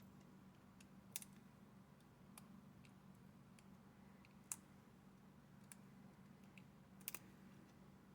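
Near silence with a steady low hum and about five faint, scattered clicks and taps of small model parts and tools being handled.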